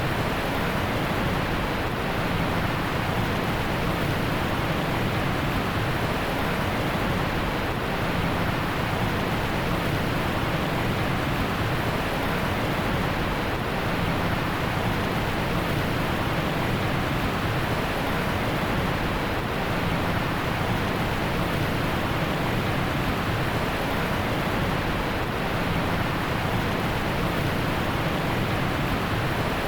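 Heavy rain falling steadily, an even rushing hiss with no distinct drops or thunder.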